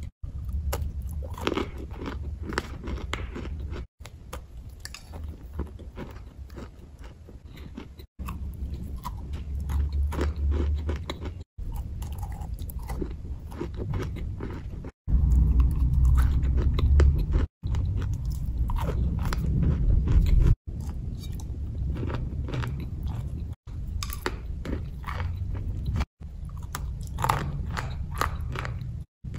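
Close-up biting and chewing of a hard, crumbly grey chunk: many crisp crunches in the mouth over a low rumble. The sound comes in short spliced stretches that cut off abruptly every three or four seconds.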